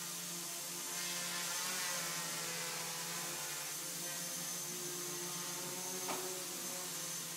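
X-BL Funpilot quadcopter's four brushless motors and propellers whirring steadily while it hovers, with a brief tap about six seconds in.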